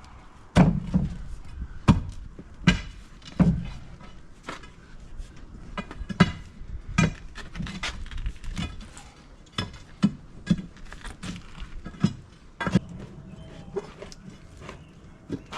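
Hand tools striking into a fence post hole: a run of sharp, irregular thuds and clanks, about one or two a second, some with a short metallic ring.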